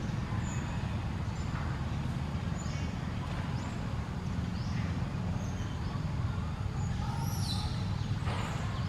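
Short, high-pitched animal chirps come every second or so, a few louder ones near the end, over a steady low rumble.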